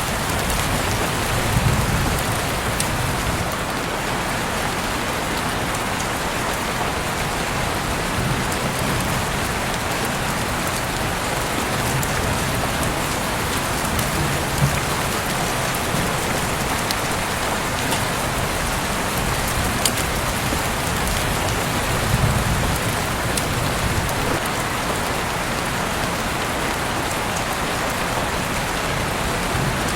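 Heavy rain falling steadily, with scattered sharp drop ticks. There are brief low swells about two seconds in and again about twenty-two seconds in.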